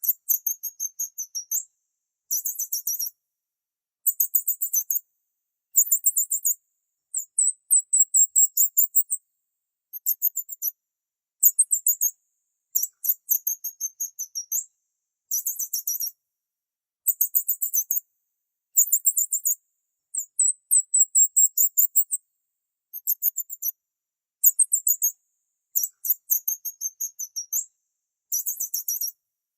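A small songbird singing very high-pitched phrases of rapid, trilled chirps, each a second or so long and repeated every one to two seconds with dead-silent gaps between.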